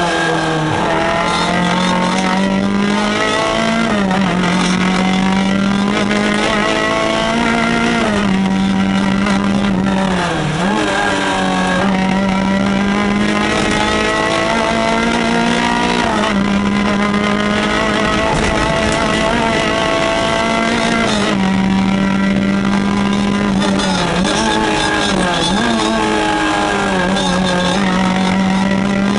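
Peugeot 205 rally car's engine heard from inside the cabin, running hard at high revs. The pitch holds steady for long stretches and dips and climbs back quickly several times as the driver lifts and changes gear.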